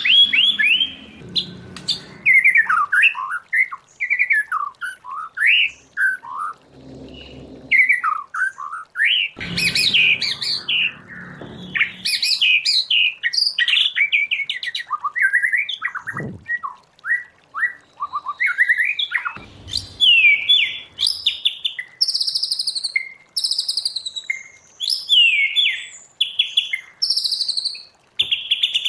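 White-rumped shama singing a long, varied song of quick whistled phrases and rapid note runs, with higher, harsher notes in the second half.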